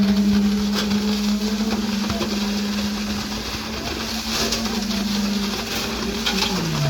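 A motor running with a steady hum, its pitch sagging near the end as if briefly loaded.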